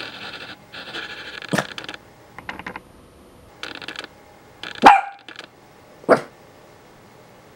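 Toy poodle growling in short raspy stretches, broken by three sharp barks, the loudest about five seconds in.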